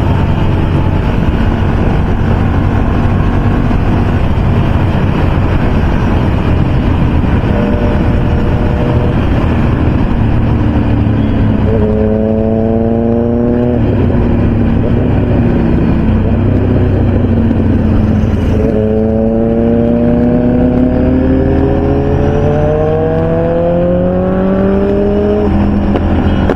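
Superbike engine accelerating at highway speed over steady riding noise. Its pitch climbs briefly about halfway through, then climbs steadily for several seconds in the last third.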